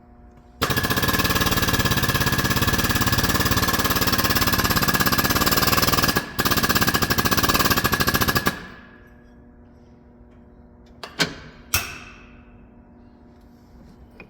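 Pneumatic air tool in a truck repair shop hammering rapidly for about eight seconds, with a brief pause shortly before it stops. Two sharp metallic knocks follow a few seconds later.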